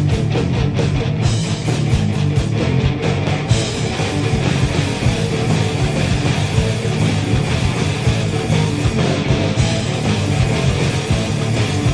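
Live rock band playing loud and without a break: two electric guitars, bass and a drum kit, with a constant fast stream of drum hits.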